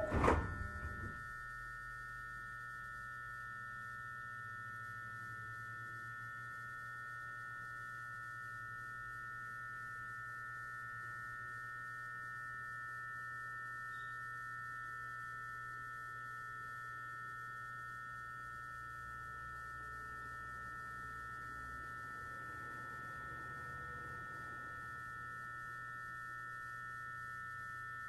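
Stationary 209-series electric train giving off a steady high-pitched electrical whine of several fixed tones over a low hum, from its onboard electrical equipment while it stands idle. A brief noise dies away in the first second.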